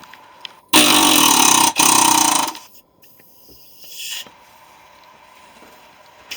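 Pneumatic air hammer running in two loud bursts of about a second each, hammering into a central air unit's compressor; a short hiss comes about four seconds in.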